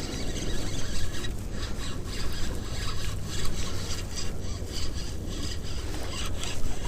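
Rubbing and scraping handling noise of a fishing reel and rod being worked close to the microphone while a fish is reeled in, over a low rumble of wind on the microphone.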